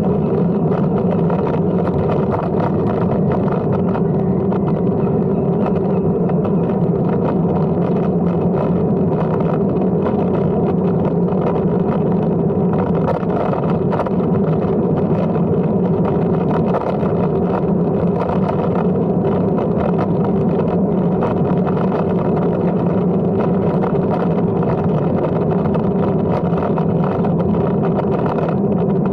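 Steady riding noise of a Brompton M3L folding bicycle on the move: tyre hum and rushing air, unchanging throughout.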